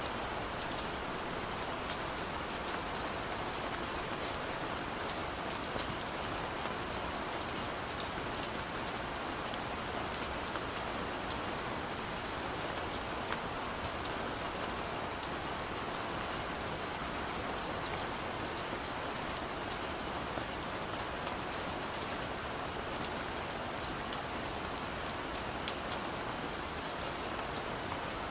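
Steady gentle rain falling, a constant hiss with scattered small drop ticks throughout.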